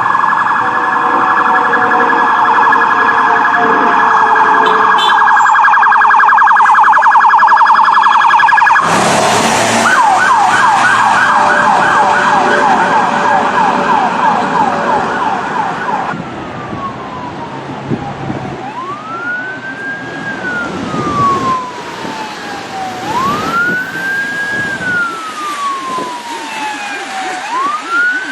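Police car electronic siren switching through its tones: a fast warble for about nine seconds, then a quick yelp of rapid repeated sweeps, then from about sixteen seconds in a slow wail rising and falling about every four seconds. Vehicle road noise runs underneath.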